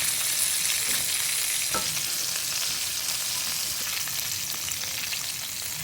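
Flour-coated chicken pieces deep-frying in hot oil in a kadai: a steady sizzle, with a couple of light clicks about one and two seconds in.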